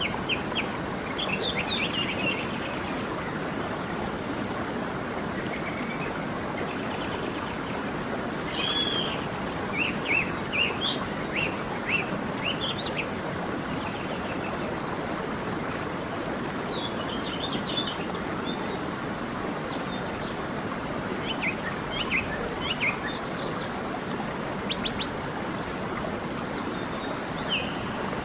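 A creek running steadily, with small birds chirping and whistling in short scattered phrases over it, busiest about a third of the way in and again past the middle.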